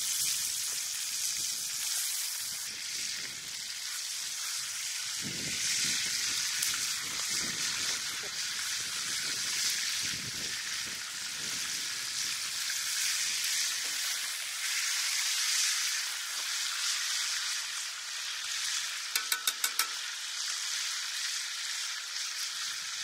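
Beef burger patties frying in a hot pan with leftover bacon fat, giving a steady high sizzle. A brief run of quick clicks comes near the end.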